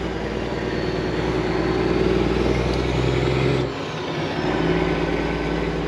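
Semi truck's diesel engine running steadily while driving, heard from the cab; the low rumble briefly drops away just before four seconds in, then picks up again.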